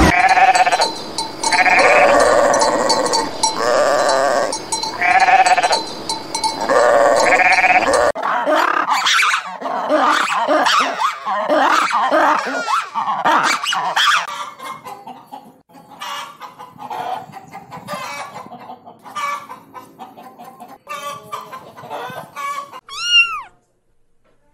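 A run of animal calls: pitched, bleat-like calls about every second and a half, then a dense stretch of overlapping calls thinning out to scattered short chirps, which go with a ring-tailed lemur. Near the end a domestic cat gives one falling meow.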